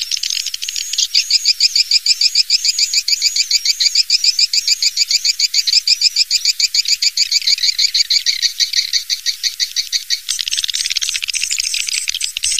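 Recorded swiftlet calls from a nest-house lure track: a fast, evenly repeated run of high twittering chirps. Near the end they change to a denser, buzzing trill.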